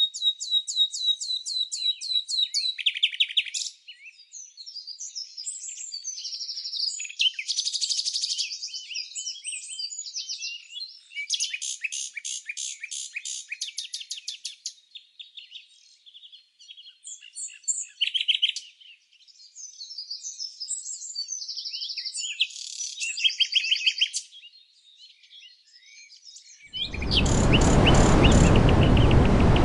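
Songbirds singing: a mix of high chirps, quick trills and rapid repeated notes from several birds, pausing and restarting. Near the end a loud steady rushing noise cuts in suddenly, with a bird still trilling over it.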